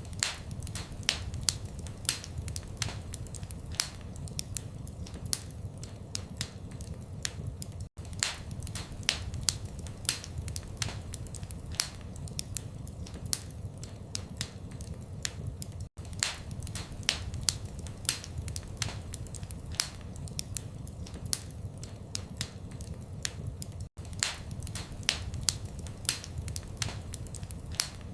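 Fireplace fire crackling, with sharp pops several times a second over a low steady rumble. The sound drops out for an instant about every eight seconds, where a looped recording restarts.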